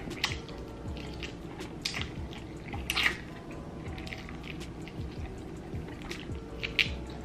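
Close-up wet chewing and lip smacking on sauce-drenched crunchy fried chicken, a run of short sharp smacks, the loudest about three seconds in and near the end.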